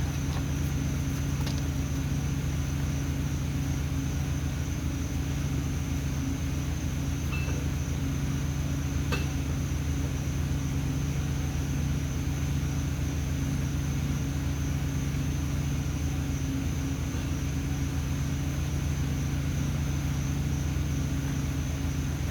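An engine running steadily at one constant speed, an even low hum with a faint high whine above it.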